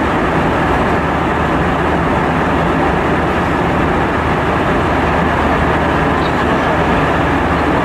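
Steady cabin drone of an Airbus A320 in flight: engine and airflow noise with a low hum underneath, unchanging throughout.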